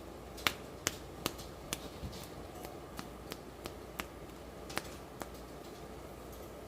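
A series of light, sharp clicks and taps from handling, about a dozen at uneven intervals, stopping a little after five seconds in.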